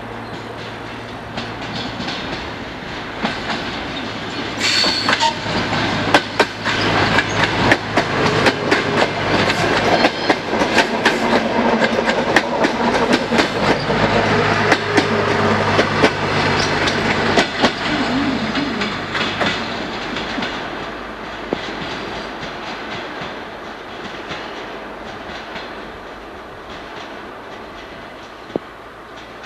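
DT1 diesel-electric multiple unit running past on the rails. Its wheels clack rapidly over the rail joints over a steady diesel drone, growing louder, then fading away. A short sharp high sound comes about five seconds in.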